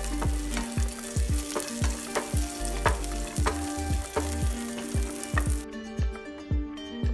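Cashews and raisins sizzling in hot fat in a frying pan, stirred with a spatula; the sizzle cuts off suddenly about five and a half seconds in. Background music with a steady beat runs underneath throughout.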